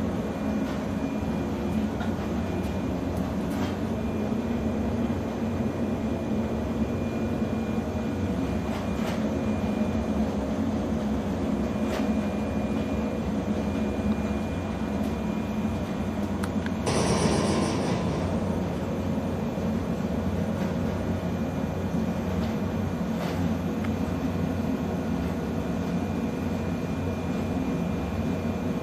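Tsurumi Line 103-series electric train: a steady mechanical hum with several fixed tones. About two-thirds of the way through, a short hiss of air lasts about a second.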